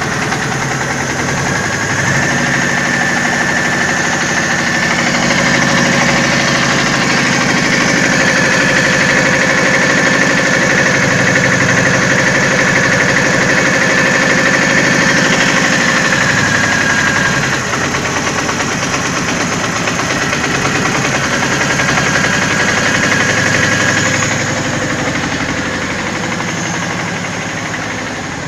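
VAZ-2109's 1.8-litre eight-valve engine running steadily after an engine rebuild, with a thin high whine over the engine note. It gets a little louder about two seconds in, and drops back after about 17 seconds and again after about 24 seconds, where the whine fades.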